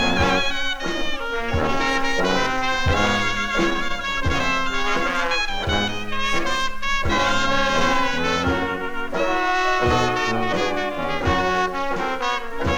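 Dixieland jazz band playing an instrumental passage: trumpet and trombone lines over a rhythm section keeping a steady beat.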